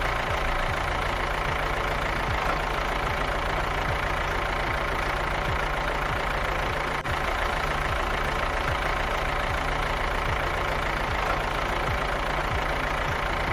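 Tractor engine running steadily at idle, a low even chug with a regular light knock.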